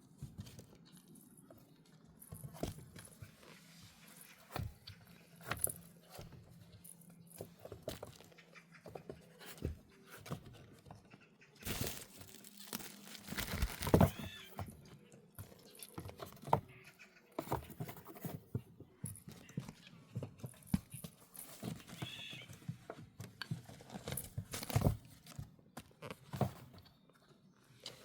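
Kittens romping and scuffling: scattered light taps, thumps and rustles, with a louder flurry of scrabbling about halfway through.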